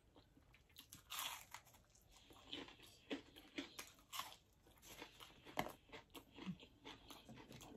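Faint crunching and chewing of crispy deep-fried takeaway food, close to the mouth: many small, irregular crunches, with a sharper crunch about halfway through.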